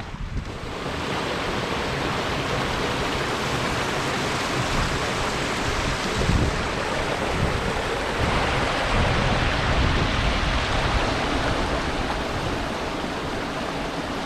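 Wind rushing steadily, with gusts buffeting the microphone in an uneven low rumble.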